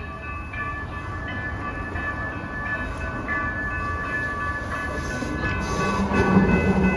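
LYNX light rail train approaching the crossing and growing steadily louder. Several high, steady ringing tones come and go, and a low steady hum comes in about six seconds in as the train draws near.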